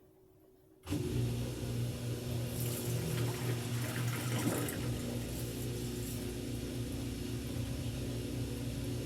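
Washing machine running: a steady motor hum under an even rushing hiss, cutting in suddenly about a second in, with the hiss brightest for a couple of seconds in the middle.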